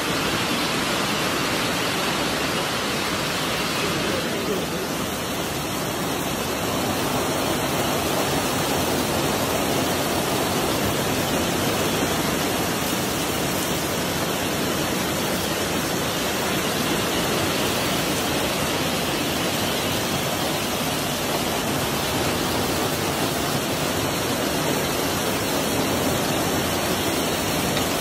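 Very heavy rain pouring down: a steady, dense hiss of a downpour striking the ground and running water, with a brief slight dip about four seconds in.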